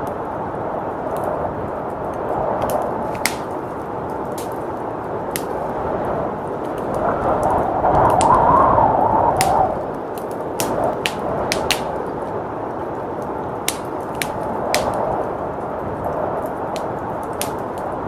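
Fireplace crackling with scattered sharp pops, over the steady rush of blizzard wind that swells into a louder gust about halfway through.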